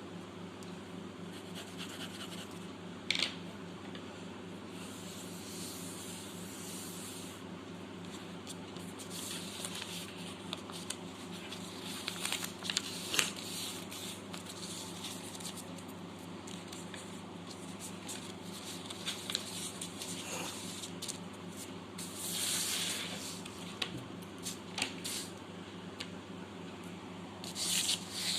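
Pencil rubbing and scratching on paper in irregular bursts of shading strokes, over a steady low hum.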